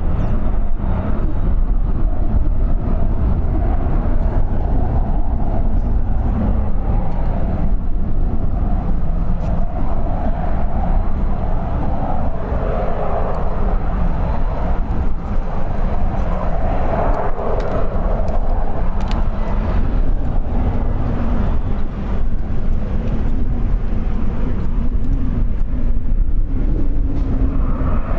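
Steady jet rumble from the CFM56-7B turbofans of a Boeing 737-800 on its arrival, with a heavy low rumble and a rushing noise that swells a little in the middle.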